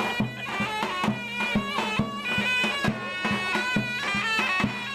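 Turkish folk dance music: a high, shrill, ornamented wind melody over a steady drum beat.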